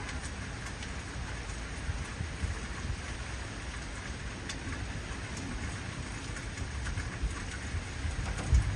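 Heavy rain falling steadily, with scattered drop ticks over a low rumble of thunder; a few louder low rumbles of thunder come near the end.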